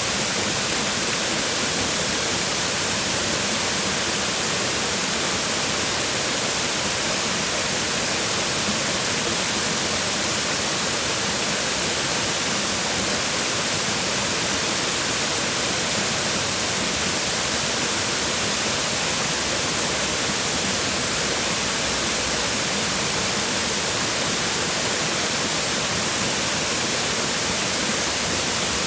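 Waterfall: water falling and splashing on rocks, a steady, even rush with no change.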